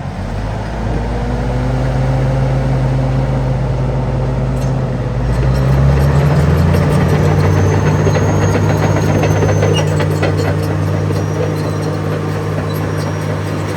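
Cat D9T crawler dozer's C18 diesel engine running, its pitch and loudness rising about five to seven seconds in as it revs up under load. Rapid metallic clanking from the steel tracks joins in the second half.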